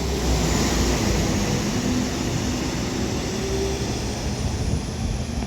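Class 197 diesel multiple unit pulling out of a station and accelerating, its engines running under power, with a faint high whine rising slowly near the end.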